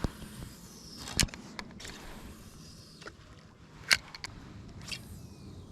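A few sharp knocks and clicks of gear handled in a kayak, the loudest about a second in and near four seconds, over a faint steady hiss.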